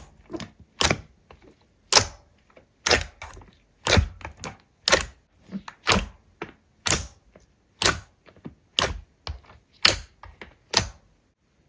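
Slime being pressed and squeezed by hand, giving a sharp pop or click about once a second, with softer crackles between.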